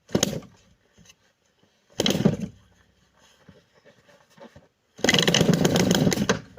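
Small piston engine, called a Shahed drone motor, being started: it fires in three short bursts, the last running for about a second and a half with a rapid buzz before cutting out.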